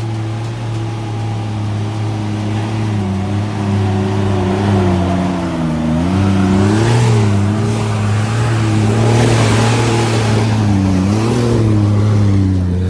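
A 4WD's engine running under load on an off-road track, its pitch rising and falling as it revs, most clearly about seven and eleven seconds in.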